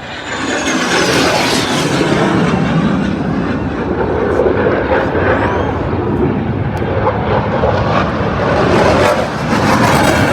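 F-16 fighter jets passing close overhead. A high whine falls in pitch during the first second or so as the engine roar builds. A loud, rough roar then holds, swelling again near the end.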